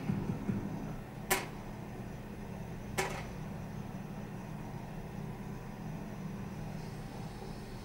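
Steady low drone like a car's interior on the move, with two sharp clicks, one about a second and a half in and one about three seconds in.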